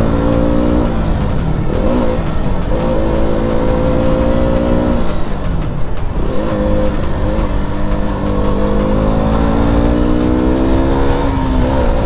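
KTM RC 200 single-cylinder motorcycle engine under way. Its pitch rises through the revs, then drops back and climbs again at about 2, 6 and 11 seconds as the rider shifts gears, with wind rumbling on the helmet microphone.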